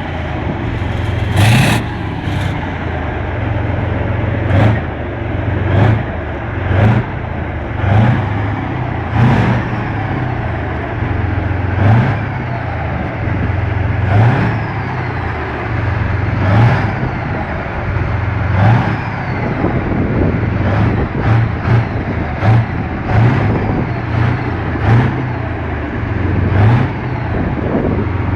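T-72 tank's V12 diesel engine running through its exhaust, with a heavy low drone. The throttle is blipped into a short rev about every one to two seconds, a few times in quicker succession past the middle.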